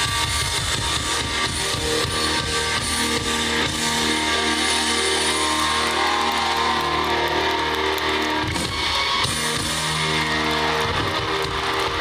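Live rock band playing with guitars and drum kit, without singing.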